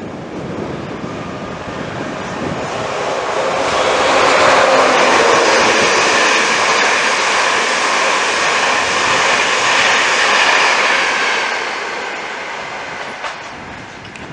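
A train passing close by on the line, its noise building over the first few seconds, loudest in the middle, then dying away near the end.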